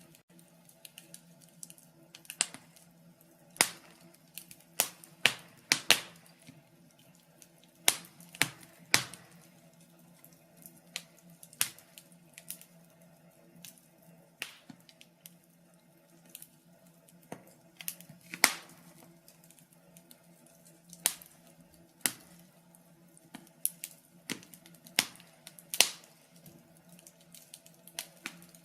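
Wood fire crackling, with sharp irregular pops of varying loudness about once or twice a second over a faint steady low hum.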